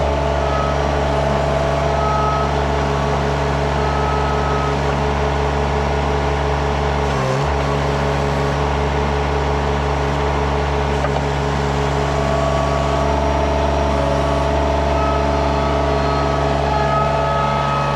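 KRT ST900HD mini skid steer's engine running steadily at working throttle, with a brief dip about seven and a half seconds in.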